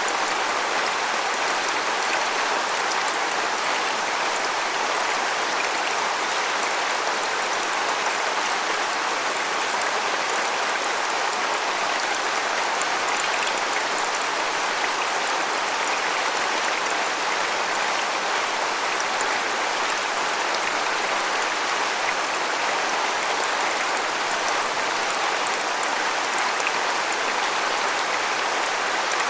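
Waterfall: water falling and splashing in a steady, even rush with a fine spatter of droplets.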